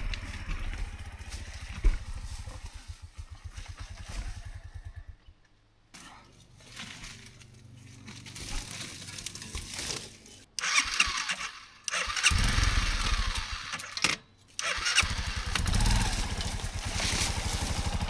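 Dirt bike engine putting along at idle, going quiet about five seconds in, then running again and revving in loud bursts with short breaks through the second half.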